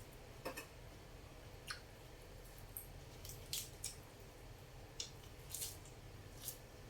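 Close-up eating sounds: about eight short, soft, wet clicks and smacks of a person chewing and eating noodle soup, scattered irregularly over a low background hum.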